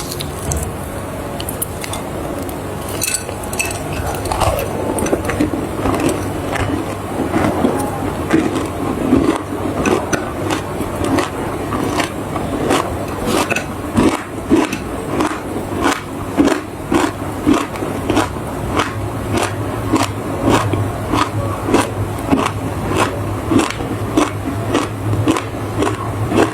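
Chinese clay being bitten and chewed, a steady run of crisp crunches at about two a second.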